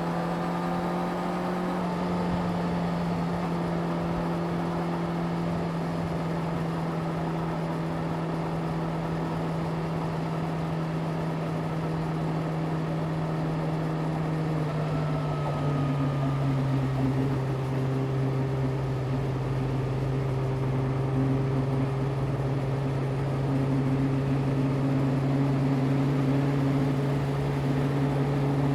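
Yamaha YZF-R6's inline-four engine running steadily under way; about halfway through its note steps down to a lower, steady pitch.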